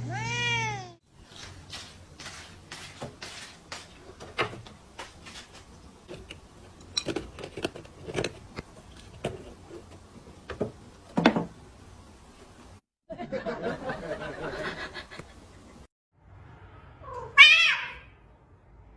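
Domestic cat meowing, one drawn-out rising-and-falling meow at the start and a higher one near the end. Scattered light knocks and clicks come in between.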